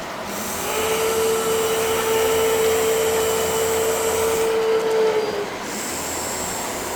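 Electric motor whine of a model train running on a miniature layout, a steady hum over running noise that sags slightly in pitch and stops about five and a half seconds in.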